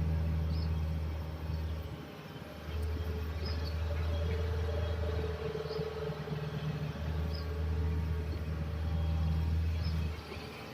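Hitachi hydraulic excavator's diesel engine running, its low note swelling and easing three times, dropping back about ten seconds in.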